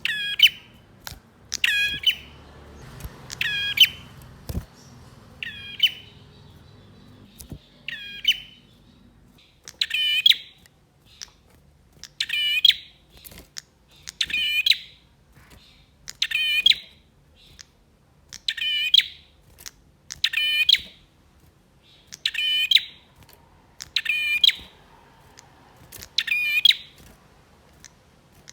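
Male prinia (prenjak) calling: the same short, sharp call repeated about every two seconds.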